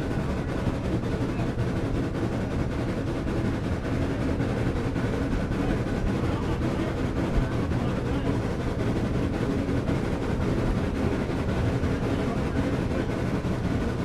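Excursion train rolling along the track, a steady low rumble with no clear rhythm.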